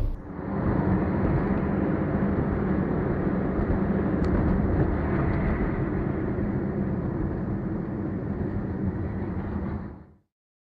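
A car driving, heard as a steady rumble of engine and road noise that cuts off abruptly about ten seconds in.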